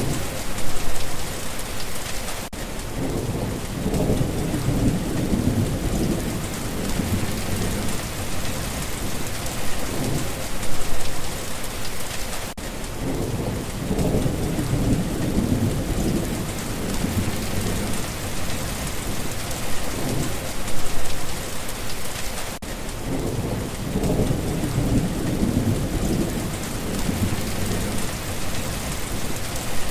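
Steady rain falling, with a low rumble of thunder rolling in about every ten seconds in an identical repeating pattern.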